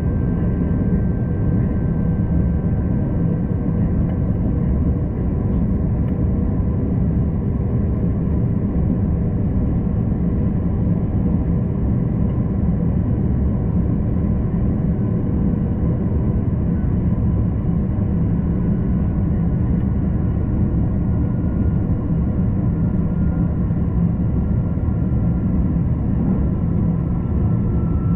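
Steady low rumble of a V/Line passenger train running along the line, heard from inside the carriage, with a faint steady whine above it.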